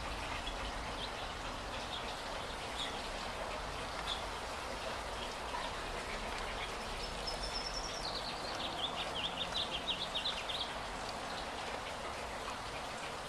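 A songbird calling over a steady hiss: scattered short chirps, then about halfway through a high whistled note followed by a quick run of chirps lasting a few seconds.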